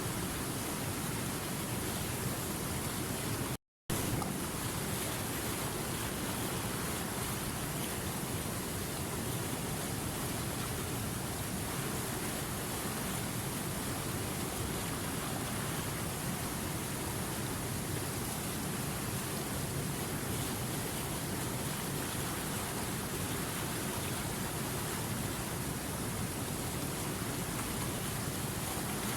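River water running steadily over rocks, an even rushing. It cuts out completely for a split second about three and a half seconds in, then resumes unchanged.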